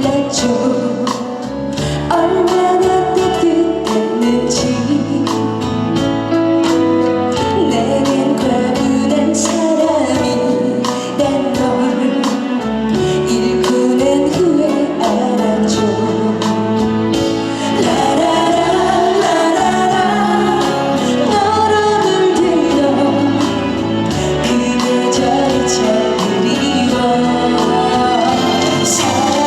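A woman singing a pop song live over a full backing track with a steady beat, through a concert sound system.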